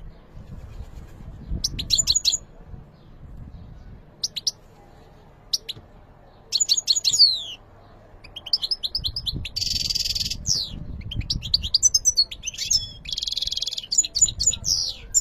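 European goldfinch singing: short phrases of rapid twittering notes and quick downward slurs, coming more often and running together in the second half, with two harsh buzzy trills about ten and thirteen seconds in.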